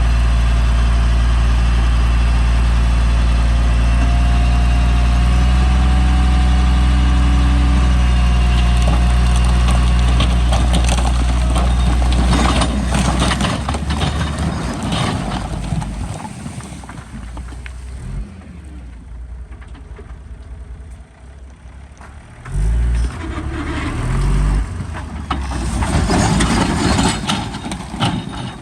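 Heavy diesel engine of earthmoving equipment running steadily for the first half, then falling quieter and uneven, with short loud surges of revving in the second half.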